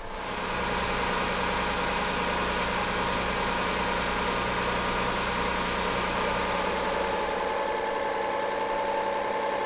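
Toyota 3.0 L V6 car engine idling steadily.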